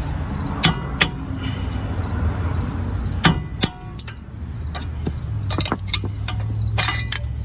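Sharp clicks and knocks of a screwdriver prying a plastic wheel adapter off the wheel hub, over a steady low hum. Two clicks come about a second in, a louder cluster around three to four seconds in, and more near the end. The plastic adapter gets slightly broken in the prying.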